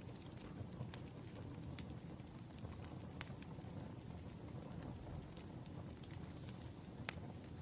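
Firewood burning and crackling: a steady low rumble with a few sharp pops scattered through it, the loudest about three seconds in and again near the end.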